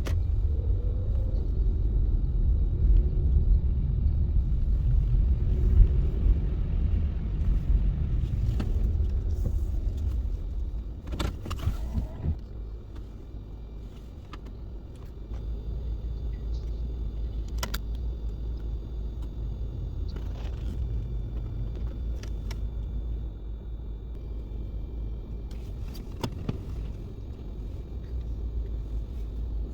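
Car in motion, with a steady low road rumble. The rumble eases off about ten seconds in and settles at a lower level. A few sharp clicks are heard along the way.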